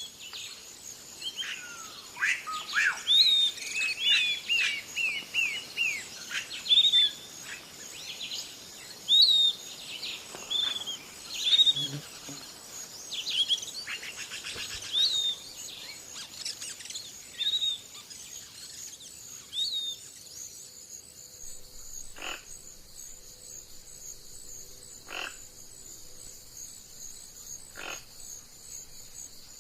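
Outdoor wildlife chorus: a steady high insect drone with many quick chirping animal calls, frogs or birds, for the first twenty seconds or so. After that, only three short sharp calls about three seconds apart.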